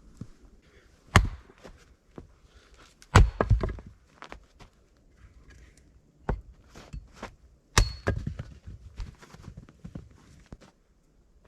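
Heavy blows struck a few seconds apart, each a sharp thunk with a deep thud. Two of them leave a brief metallic ring, with smaller knocks and rustling in between.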